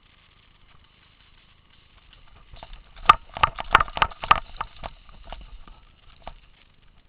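A quick, irregular run of sharp knocks or pops, roughly a dozen packed into about two seconds, peaking about three seconds in, with a few more spaced-out ones trailing off after.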